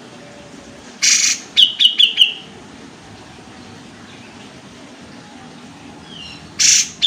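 Olive-winged bulbul (kapas tembak) calling. About a second in, a harsh burst is followed by a quick rattling trill of repeated high notes. A second harsh burst comes near the end.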